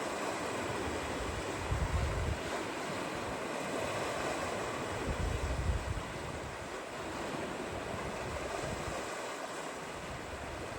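Waves washing and breaking on a shore as a steady rush, with wind buffeting the microphone in low rumbling gusts about two seconds in and again about five seconds in.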